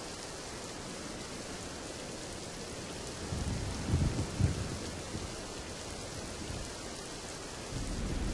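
Steady rain with rolling thunder. A low rumble builds about three seconds in, is loudest around four seconds, and dies away a second later. Another rumble starts near the end.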